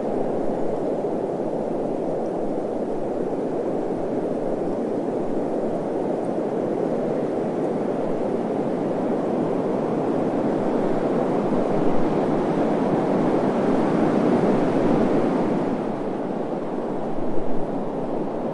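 Desert wind blowing steadily, swelling into a stronger gust in the middle, with a couple of brief low buffets of wind on the microphone.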